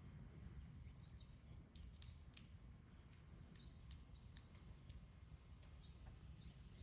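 Near silence: a faint low outdoor background with scattered faint clicks and a few brief, faint, high bird chirps.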